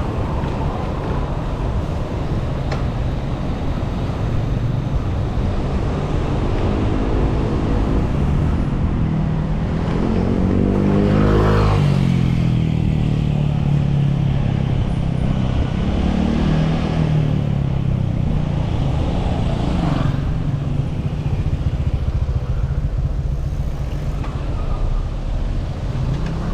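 City road traffic: the engines of passing cars and motorcycles rise and fall, loudest about eleven seconds in, over a steady low rumble.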